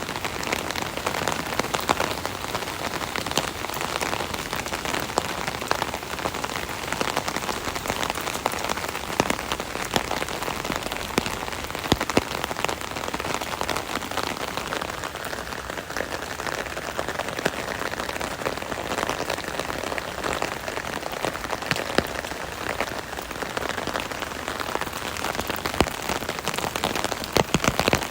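Rain pattering steadily on an umbrella canopy overhead, a dense hiss of drops with many sharp individual taps, heavier drips coming through near the end.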